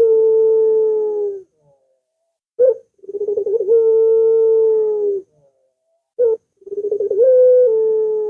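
Barbary dove (ringneck dove) cooing in repeated phrases: each a short higher note, a quick stutter of notes, then a long drawn-out low coo of about two seconds. Three such phrases, the first already under way at the start.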